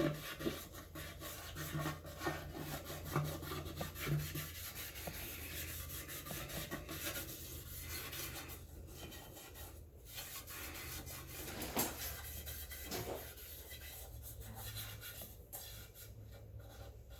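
Hand rubbing and scrubbing with a pad and PB Blaster on the painted metal top of a Honda trash pump around the gas-cap opening, in quick repeated strokes that ease off about halfway through.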